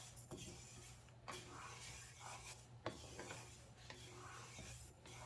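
Faint, repeated scraping strokes of a spatula stirring dry mung dal as it roasts in a hot tawa.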